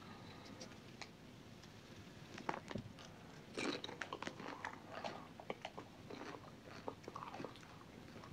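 Close-up eating sounds: crunchy biting and chewing, with scattered clicks and crackles as food is handled in a plastic takeout container, busiest from a little before halfway.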